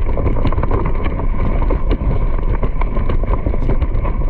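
Loud, steady rumble of wind buffeting the microphone, with many small clicks scattered through it.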